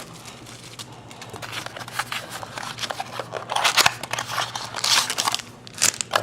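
Crinkling and rustling of trading-card pack wrappers and cardboard as sealed packs are handled and opened, in irregular bursts with small clicks, loudest about four and five seconds in.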